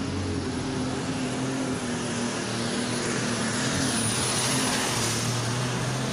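Alcohol-fuelled super stock pulling tractor engine at full power, dragging the weight sled down the track, with a thin steady high whine over it.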